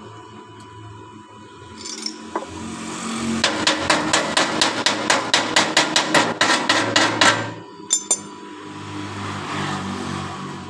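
Chipping hammer rapping on a stick-weld bead to knock off the slag: a quick run of about twenty metallic strikes at roughly five a second, then two more.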